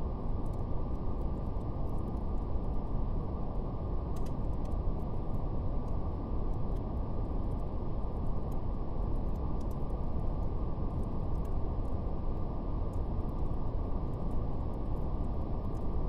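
Steady brown noise, a deep, even rumbling hiss with no highs, under a faint crackle of fire: scattered soft pops.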